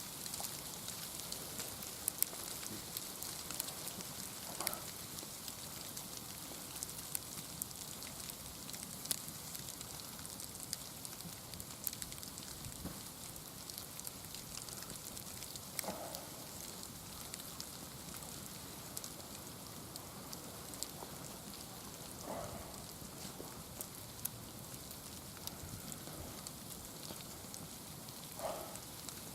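Light rain or sleet pattering steadily, a dense fine ticking. A few brief, soft sounds rise above it about every six seconds.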